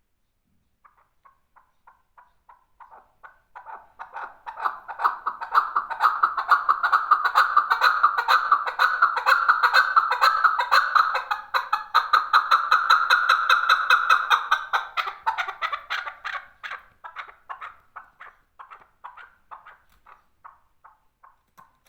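Male chukar partridge calling: a long series of rapid, repeated clucking notes that starts sparse, builds into a dense, loud rally for about ten seconds, then slows and fades away.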